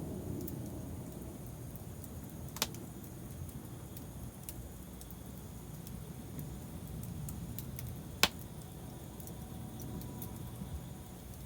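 Wood fire crackling: scattered small ticks and two sharp pops, the louder one about eight seconds in, over a steady low rumble.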